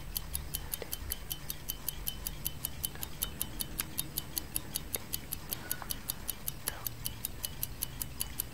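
Clock ticking steadily at a quick, even rate of several ticks a second, with a faint low hum underneath.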